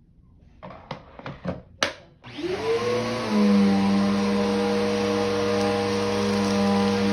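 A few short knocks and clatters, then about two seconds in a vacuum cleaner switches on. Its motor whine rises in pitch as it spins up, then it runs steadily with a hum and a rush of air.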